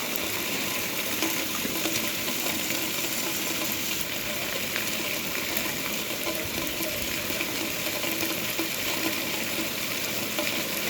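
Steady rain falling, an even hiss with scattered ticks of drops.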